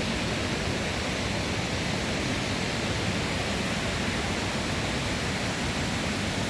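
Steady rush of a waterfall's stream, a continuous even hiss of water over rocks.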